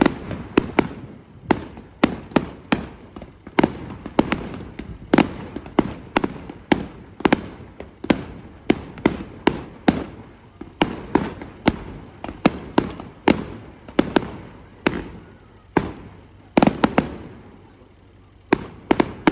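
Fireworks going off in a dense, irregular string of sharp bangs, about two a second, each trailing off in a short echo, with a brief lull near the end.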